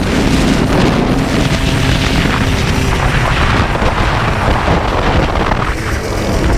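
Yamaha Blaster 200's two-stroke single-cylinder engine running steadily at speed, heard under loud wind buffeting on the microphone.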